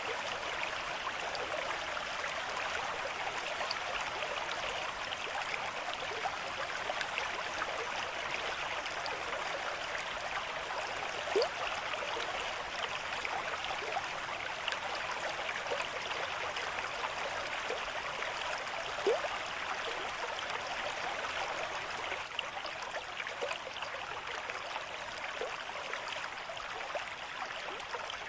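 Running water babbling steadily, like a small stream, with two brief louder splashes, a little before halfway and about two-thirds of the way through.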